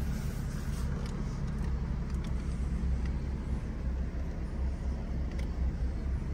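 Jaguar F-Type 400 Sport's supercharged 3.0-litre V6 idling steadily, a low hum heard from inside the cabin.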